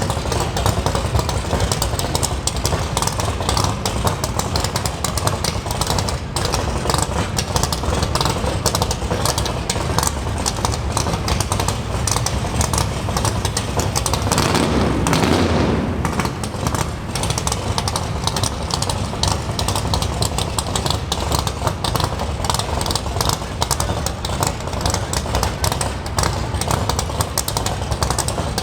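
V8 muscle car exhaust running at low speed, with one louder swell lasting about two seconds a little past the middle.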